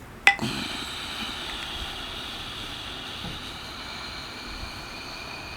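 A person's long, steady breath out, audible as a hiss of air, starting with a small click about a quarter-second in: the slow exhalation (rechaka) of a pranayama breathing round.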